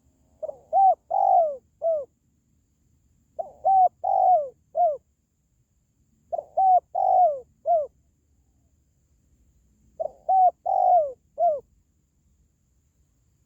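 Spotted dove cooing: four phrases about three seconds apart, each a quick run of four or five coos, the longest and loudest in the middle and the last one falling in pitch.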